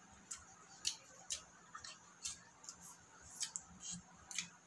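Wet clicks and smacks of open-mouthed chewing while eating chicken with the hands, coming irregularly two or three times a second.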